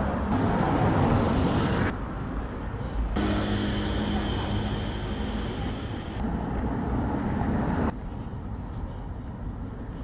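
Road traffic: motor vehicles passing close by. About three seconds in, a vehicle with a steady engine note takes over until near the end, and the sound changes abruptly between segments.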